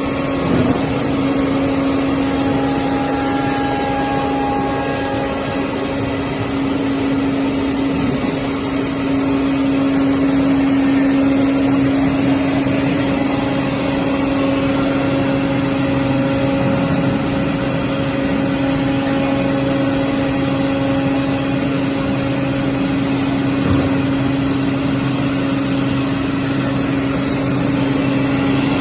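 CNC solid-wood cutting machine running with a steady motor hum and a dense mechanical noise that holds an even level throughout.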